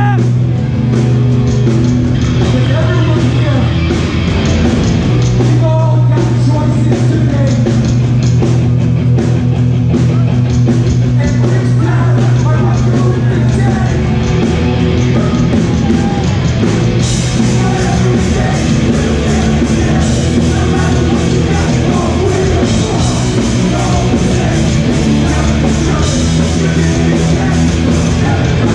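Hardcore punk band playing live at full volume: distorted electric guitars, bass and drums. The sound gets brighter in the top end about seventeen seconds in, as the cymbals come in harder.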